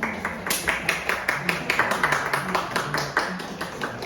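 A small audience applauding: quick, uneven hand claps that run on steadily.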